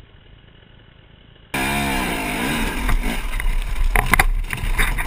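Dirt bike engine revving up and down, starting suddenly about a second and a half in, followed by several sharp knocks.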